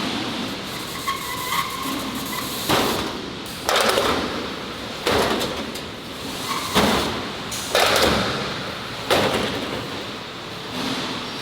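A series of six loud bangs at irregular intervals of about a second, each fading over a short tail, over steady industrial background noise.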